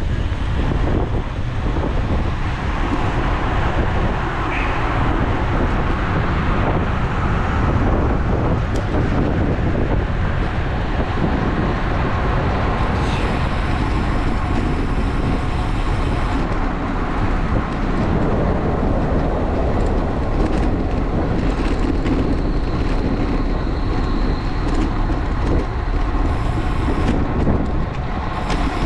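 Steady wind rush and road noise on an action camera's microphone from a moving road bike, with the noise of traffic around it.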